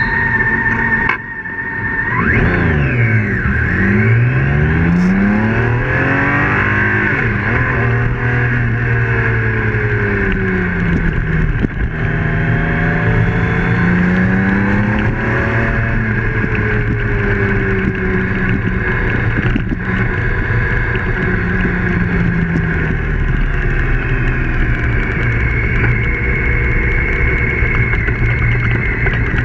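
BMW K1600 GT police motorcycle's inline-six engine pulling through the gears, its pitch rising with each acceleration and dropping back several times. A steady high whine sits over it.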